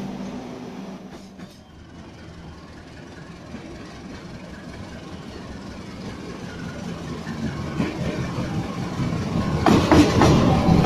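A passenger train rolling away from a station platform, then a CC 201 diesel-electric locomotive hauling a passenger train approaching and passing close. Its rumble grows louder toward the end, with sharp wheel clacks on the rail joints in the last second or so.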